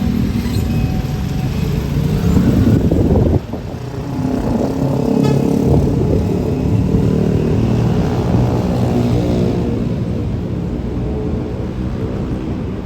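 A heavy road vehicle drives past close by, its engine running loud, with a brief dip about three and a half seconds in and a pitched droning tone through the middle.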